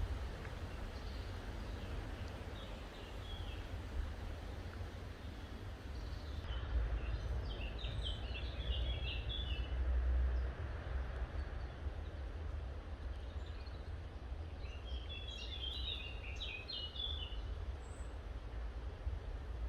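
Outdoor garden ambience: a steady low rumble underneath, with a songbird singing two quick runs of high chirping notes, about a third of the way in and again near the end.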